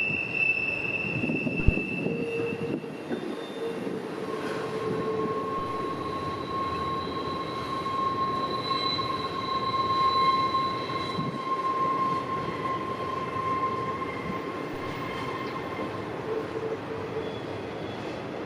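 CSX freight train's cars rolling past with wheel squeal: several long, steady high squeals that come and go over the rumble of the wheels on the rails, with one sharp clank about two seconds in.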